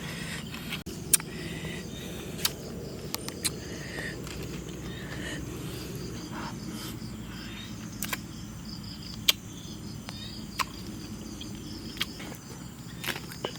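Outdoor ambience with a steady low rumble and faint insect chirping, broken by sharp clicks every second or two.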